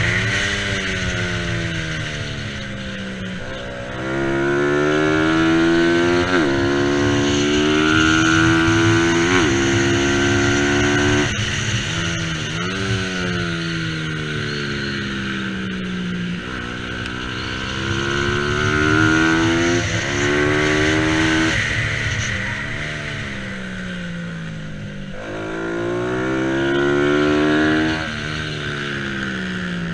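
Bajaj Pulsar 200 NS single-cylinder engine at race pace, its revs climbing and stepping down with each upshift, then falling away on the overrun, several times over. A steady rushing hiss runs beneath it.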